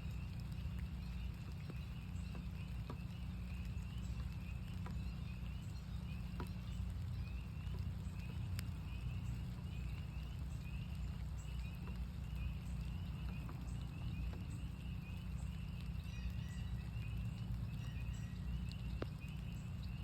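Chorus of northern spring peepers: many short, high, rising peeps repeating and overlapping without pause. Scattered sharp taps of rain drops and a steady low rumble run underneath.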